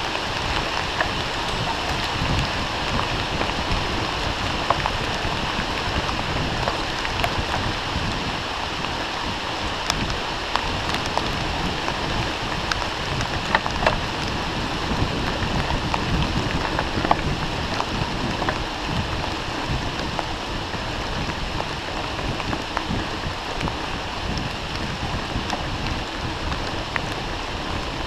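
Steady rain falling, with many sharp drop ticks scattered through it over a low rumble.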